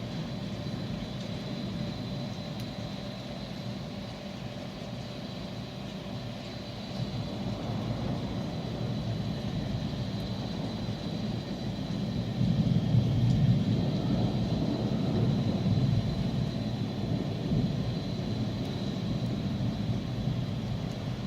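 Low, continuous rumble that swells for a few seconds in the middle and then eases off, with a faint steady high tone throughout.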